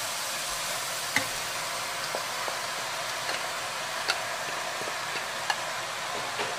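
Pork, onions and garlic sizzling steadily in a stainless steel pot as chopped pig ears are tipped in and stirred with a wooden spatula, with a few light knocks against the pot.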